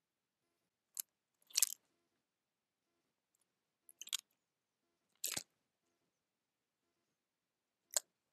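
Birds pecking at food on a feeder: a few scattered short, sharp taps and crunches, about five in all.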